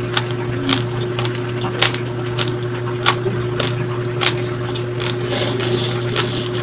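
Raw, uncooked white rice grains crunching between the teeth, about two sharp crunches a second, over a steady low hum. Near the end a metal spoon digs into the dry rice, grains rustling and clinking.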